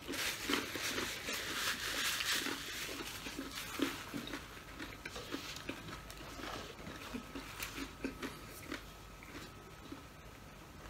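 Close-miked mouth noises of a man chewing a mouthful of food, soft wet chews about twice a second. A paper napkin rustles over the first few seconds.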